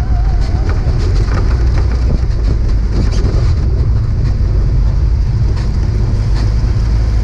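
Trophy truck driving hard on a dirt track: a dense, steady rumble with many short rattles and clatters.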